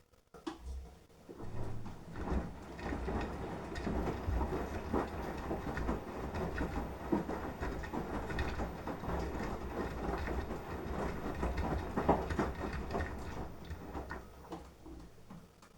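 Beko washing machine drum turning during the wash, tumbling the load with a low rumble and irregular clatter. It starts about half a second in and stops near the end, one stroke of the wash rhythm.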